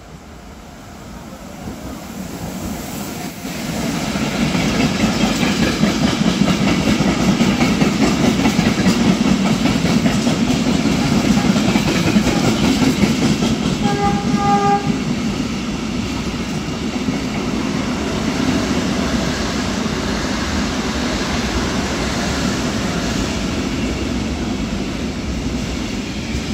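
Intermodal freight train hauled by an E483 electric locomotive approaching and then passing through the station at speed. The noise of its wheels and wagons grows over the first four seconds and then holds steady as the trailer-carrying wagons go by. A brief tone sounds about halfway through.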